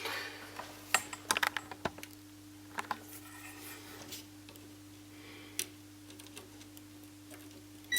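Scattered light clicks and taps of multimeter probes and a small capacitor being handled on a circuit board, most of them about one to two seconds in, over a faint steady hum.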